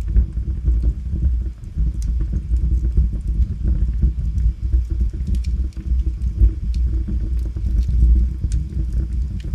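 Wood logs burning in a fireplace: a steady low rumble with scattered sharp crackles and pops.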